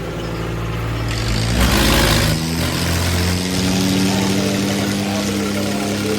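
Tractor engine running, revved up about a second and a half in with a brief loud rush of noise, then held steady at higher revs.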